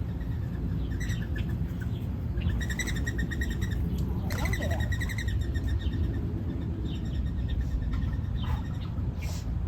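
Backyard songbirds calling, with fast pitched trills strongest about midway through and scattered short chirps, over a steady low rumble.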